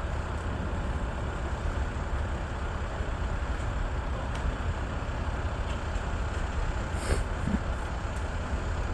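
Norfolk Southern mixed freight train rolling slowly past at close range: a steady low rumble. A single sharp click comes about 7 seconds in.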